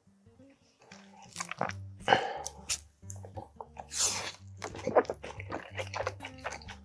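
A person biting and chewing a mouthful of rice and spicy salted seafood wrapped in seaweed: irregular crunching and wet chewing, over quiet background music.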